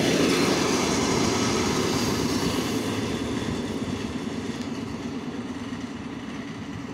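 ER9T electric multiple unit train pulling away, its wheels and running gear rumbling on the rails and fading steadily as the train recedes.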